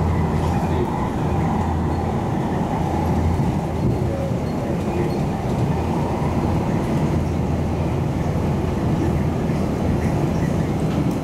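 A MARTA rapid transit railcar running along the line, heard from inside the car: a steady, even rumble with no change in level.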